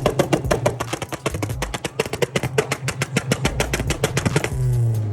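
Car engine held on a two-step launch limiter, its exhaust popping rapidly at about eight bangs a second. Near the end the popping stops and the engine runs on with a smooth, steady note.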